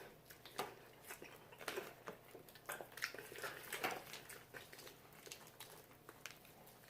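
People chewing and biting into crispy fried chicken wings: scattered soft crunches and wet mouth clicks, heaviest in the first four seconds.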